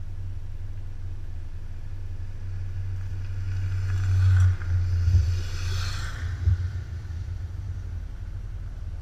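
Road noise from a moving motorcycle: a steady low rumble of wind and engine, with a louder whoosh about four to six seconds in.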